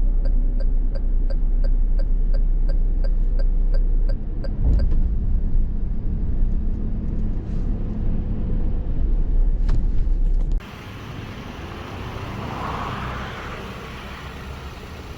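Car driving, with a steady low road rumble inside the cabin and a regular ticking, typical of a turn indicator, for the first four seconds. About ten and a half seconds in, the rumble cuts off abruptly to a much quieter steady hiss.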